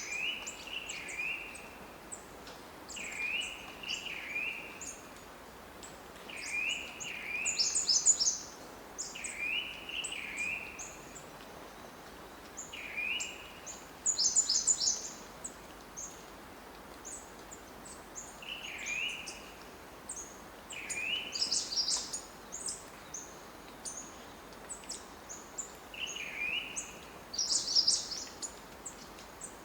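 Birds calling: short chirps in twos and threes every couple of seconds, with a louder chattering call four times, over a steady hiss.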